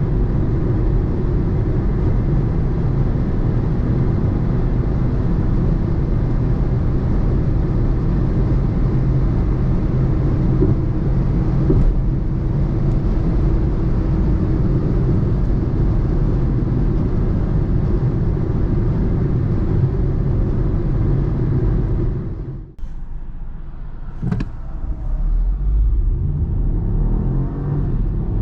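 BMW 118i (F40) three-cylinder engine and road noise drone steadily at Autobahn speed. About three-quarters of the way through the sound cuts to a much quieter idle, a click and a knock are heard, and the engine then revs up with a rising note as the car accelerates from a standstill.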